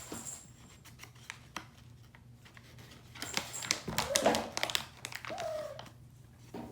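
Crinkling and small clicks of a soft-treat pouch being handled, loudest in the middle, with a kitten meowing briefly twice in the second half.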